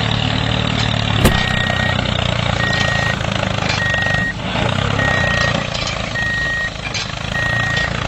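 A vehicle engine running steadily while a reversing alarm beeps about once every second, starting about a second in, with a sharp click just before the first beep.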